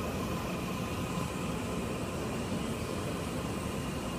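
Electric trains moving slowly over the tracks: a steady rumble and hiss with a faint, steady high whine.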